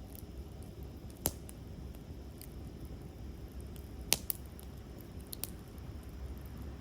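Wood campfire crackling: a few sharp, scattered pops, the loudest about four seconds in, over a low steady rumble.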